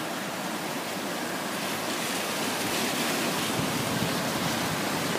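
A brook in flood, its high water rushing in a steady roar of noise that swells slightly about two seconds in.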